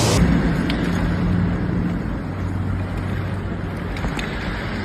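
A low, steady engine-like hum over a rumbling noise, with a few faint clicks.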